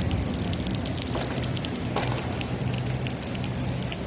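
Light rain falling, a steady hiss of many small drops hitting hard surfaces, over a low steady hum.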